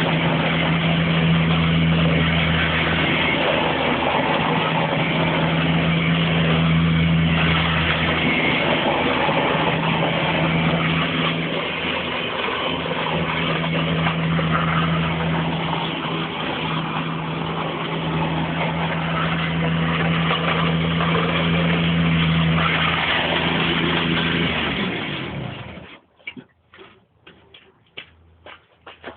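Tractor engine running steadily with a deep hum and a lot of mechanical noise. About twenty-five seconds in it cuts out abruptly, leaving a few faint clicks and knocks.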